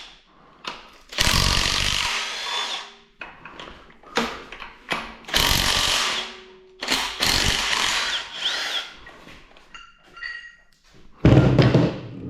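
Impact wrench running in several short bursts, loosening bolts during an engine teardown, with a louder, deeper noise near the end.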